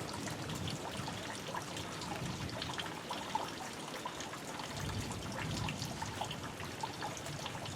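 Light rain falling, with many scattered drops ticking and dripping.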